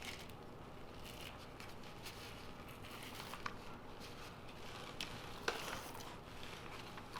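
Faint scraping and scattered clicks of a butter knife working under the membrane of a rack of pork spare ribs to pry it loose and peel it off, with the sharpest click about five and a half seconds in.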